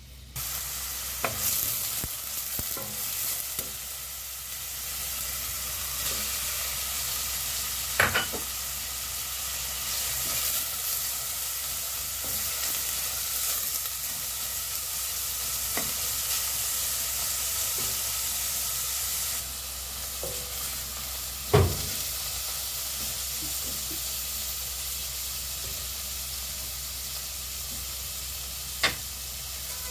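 Food sizzling in hot oil in a pan while being stirred, with a utensil knocking against the pan several times; the sharpest knock comes about two-thirds of the way through.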